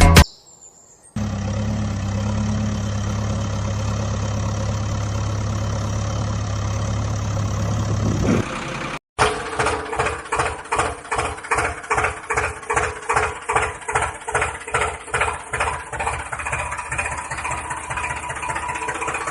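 Tractor engine running steadily. After a cut, an engine chugs with an even, pulsing beat of about two strokes a second.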